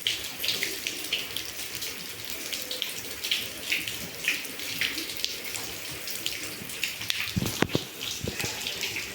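Rain falling, with heavy drops and runoff splashing in quick irregular ticks close by. A couple of brief dull thumps come about seven and a half seconds in.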